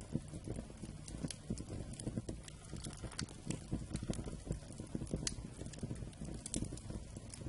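Wood campfire burning: irregular sharp crackles and pops, several a second, over a steady low rumble of the flames.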